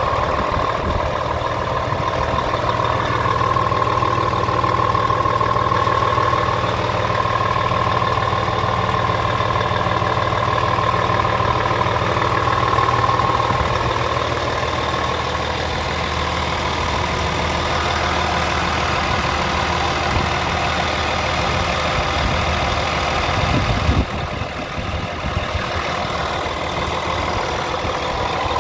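Scania R450 truck's six-cylinder diesel idling steadily, with a high whine over it in the first half. The sound drops suddenly a few seconds before the end.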